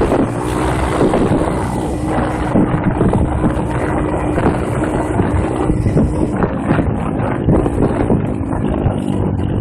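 M2R KX140 pit bike's single-cylinder four-stroke engine running at a fairly steady pitch while being ridden, with wind on the microphone. Frequent short knocks and rattles from the bike over rough ground run through it.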